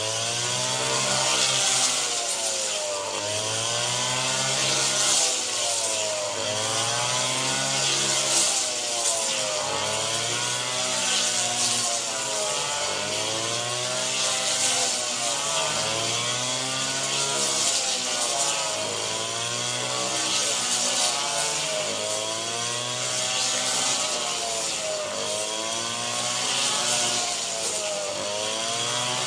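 Small engine of a rice-harvesting machine running under changing load, its pitch rising and falling in a steady cycle about every one and a half to two seconds, over a constant hiss.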